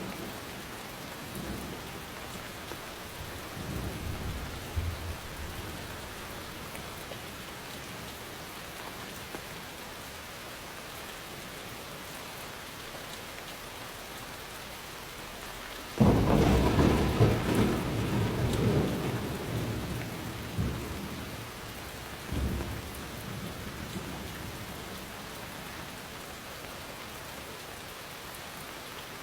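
Steady rainfall hissing, with thunder rumbling. A sudden loud thunderclap hits about halfway through and rolls on for several seconds, a fainter rumble comes early on, and a shorter one follows a few seconds after the big clap.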